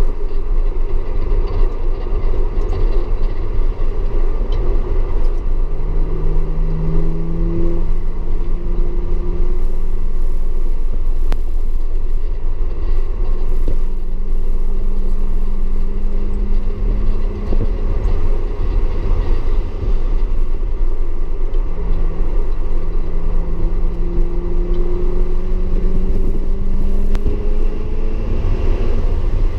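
Audi S4 engine pulling on track, its note rising slowly through three long climbs, over a steady heavy rumble of road noise.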